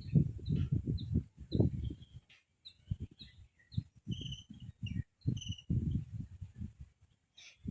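Birds chirping in short, high notes, over frequent irregular low rumbles.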